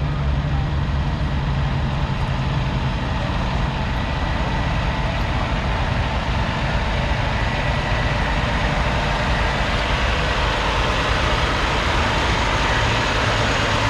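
Heavy diesel truck engine running steadily, its low drone under a constant wash of noise.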